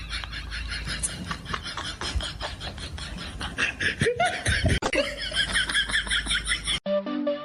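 People laughing in rapid repeated bursts, with a few higher voice cries in the middle. Near the end it cuts off abruptly and music with pitched flute-like notes begins.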